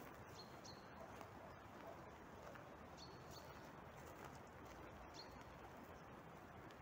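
Near silence: faint outdoor background hiss with a few short, high bird chirps.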